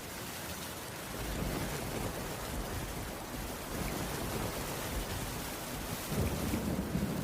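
Steady heavy rain falling, with low rumbling swells about a second in and again near the end.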